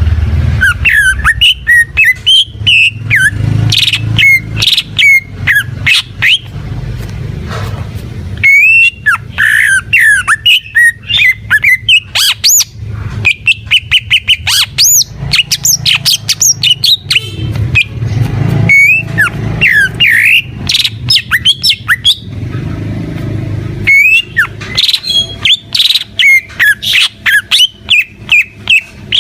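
A cucak ijo, a green leafbird, singing loudly and continuously in rapid, varied phrases of whistles, chirps and harsh notes, broken by a few short pauses.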